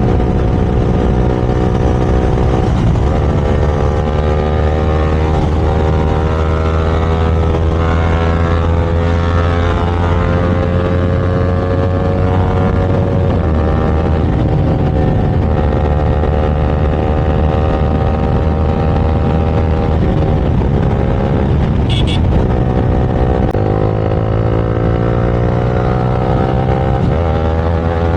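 Motorcycle engine under hard acceleration during a street race, its pitch climbing slowly and then dropping at each gear change, several times over.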